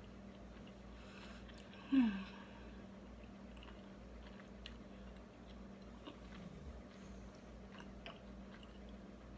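A person chewing a bite of chicken quesadilla, with soft, wet mouth clicks. About two seconds in there is one short, louder sound that falls in pitch.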